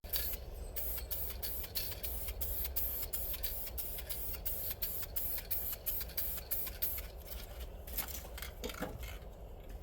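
Rapid, regular clicking, about three or four sharp clicks a second over a low steady hum, turning irregular near the end.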